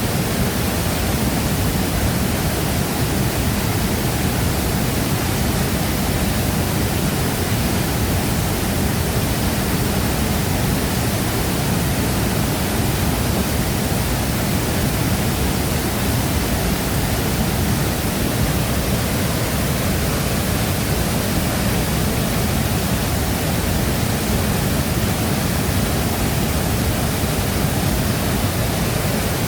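Large waterfall crashing steadily, an even, unbroken rush of falling water.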